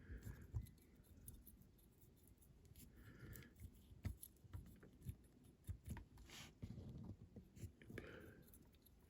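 Faint, scattered clicks and taps of small-scale hand work on a model at a bench, with a few short sniffs.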